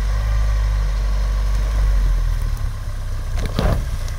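Lada Niva's engine running steadily at low revs as the 4x4 crawls up a rutted dirt slope, with a short knock near the end.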